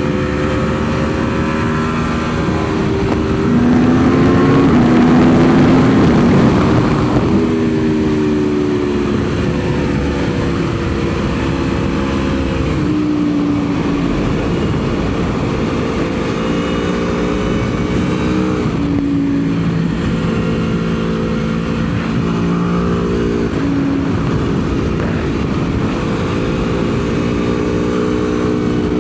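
Aprilia Tuono V4 motorcycle's V4 engine under load on track, heard onboard: the engine note climbs through the revs and drops back in steps as the rider shifts and brakes, lap after lap. A louder rush of noise swells for a few seconds early in the stretch.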